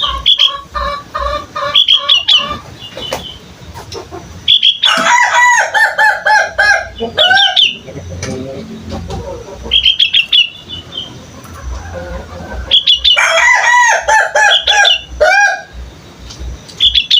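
Young sooty-headed bulbul (kutilang) practising its song. It gives several bursts of quick, bubbly, warbling phrases, each a few seconds long, with short pauses between them.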